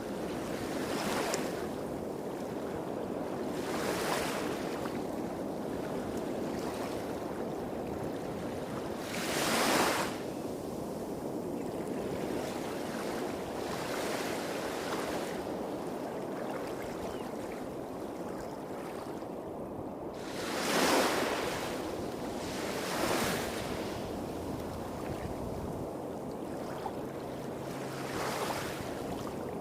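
Small waves breaking and washing up a beach, each wash a short hiss every few seconds, the largest about a third of the way in and two-thirds of the way in, over a steady background rumble of waves hitting rocks further along the shore.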